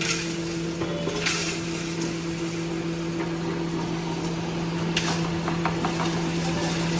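Coal grinding machine running steadily with a constant hum, with brief rattling bursts about a second in and again around five seconds.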